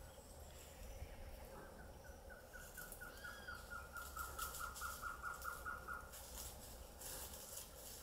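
A bird calling a rapid series of short, evenly spaced single notes, about four a second, for about four seconds, growing louder toward the end, over quiet forest ambience.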